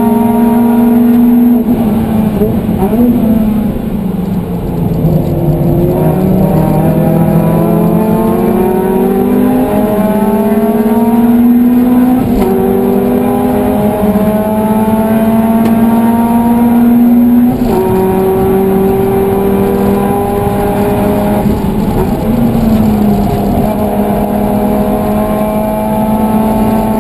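Suzuki Swift Sport ZC32S's 1.6-litre four-cylinder engine heard from inside the cabin at racing speed. Its note climbs in pitch under full throttle and drops sharply several times at gear changes and braking.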